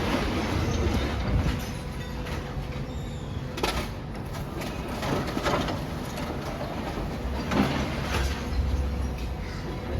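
Demolition excavator working, a low steady rumble of the machine broken by several separate knocks and crunches of breaking material, with wind on the microphone.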